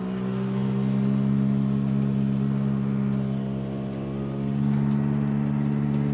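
Engine of a home-built car running steadily while driving, its pitch holding level, sagging slightly about four seconds in, then picking back up. The drive belt no longer rubs on the support bar, so no scraping noise is left.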